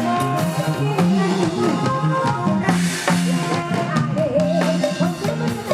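Live band music with a steady drum-kit beat over a repeating bass line, in the Isan folk-pop style.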